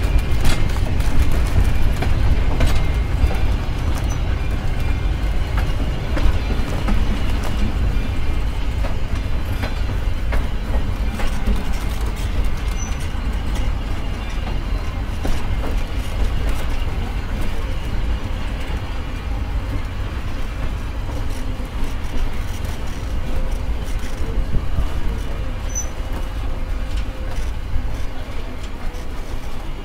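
Excursion train rolling slowly, heard from on board: a steady low rumble of wheels on the rails with irregular clanks and knocks from the cars.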